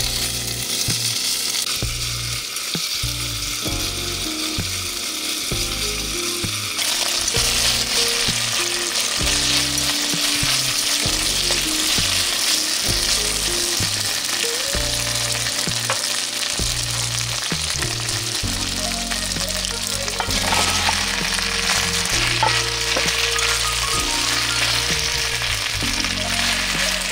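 Sausages and bacon sizzling as they fry in olive oil in a pot, stirred with chopsticks. The sizzle grows louder about seven seconds in.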